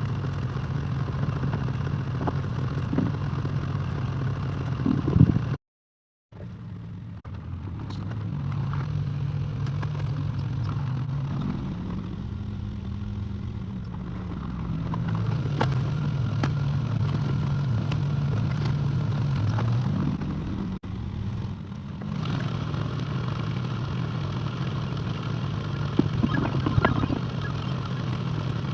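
Excavator diesel engine running, its note rising and falling with the load, with a few metal clanks. The sound cuts out completely for under a second about six seconds in.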